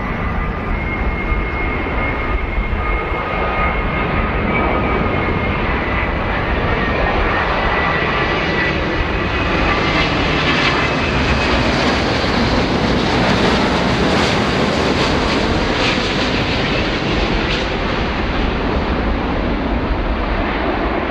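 Boeing 787-9 airliner on short final, its jet engines at approach power passing close by: a steady jet noise with a thin whine of fan tones in the first half, growing louder to a peak about two-thirds through, then easing off.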